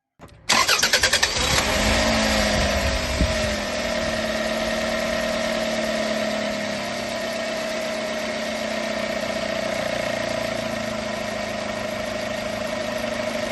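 Toyota RAV4 engine started: the starter cranks for about a second, the engine catches and runs higher for a couple of seconds, then settles into a steady idle.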